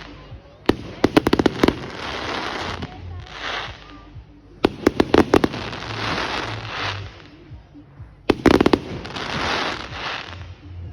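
Fireworks going off: three clusters of rapid bangs about four seconds apart, each followed by a hissing crackle.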